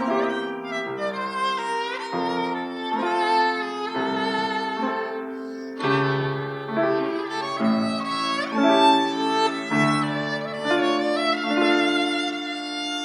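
Solo violin playing a lively melody with vibrato and quick runs, over piano accompaniment.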